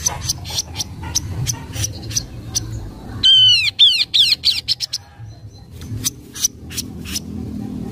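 Kaso-kaso bird calling: a string of short, sharp chip notes, broken about three seconds in by a loud, quick run of falling whistled notes, with a low steady rumble underneath.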